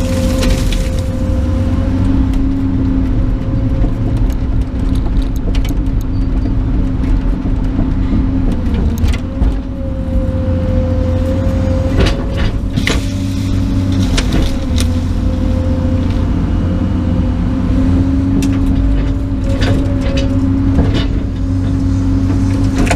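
Excavator's diesel engine running steadily under work, its pitch sagging briefly now and then as the hydraulics take load. Brush and branches crack and snap several times, mostly in the second half.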